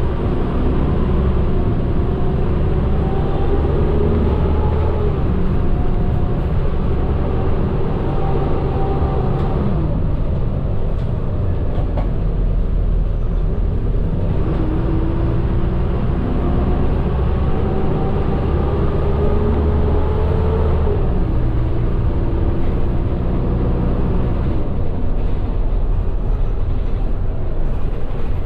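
Medium bus engine running, heard from inside the cabin over road noise. Its pitch rises in several sweeps and drops back as the bus picks up speed and eases off.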